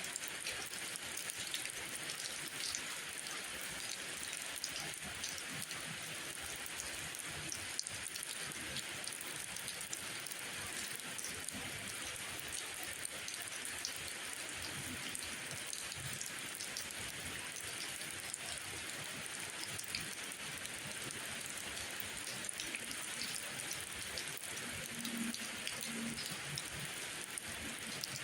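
Steady rainfall, an even hiss dotted with many small drop ticks.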